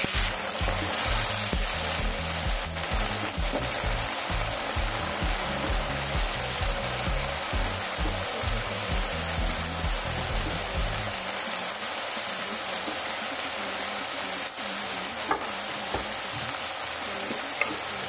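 Onion-tomato masala sizzling as it fries in hot oil in a steel kadhai, stirred with a steel spoon. A few light clicks come near the end.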